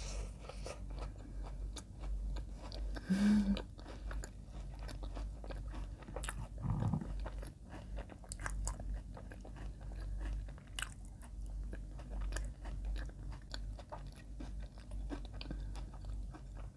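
Close-miked biting and chewing of soft white bread spread with Ovomaltine Crunchy spread: a steady run of small wet clicks and light crunches from the crunchy bits in the spread.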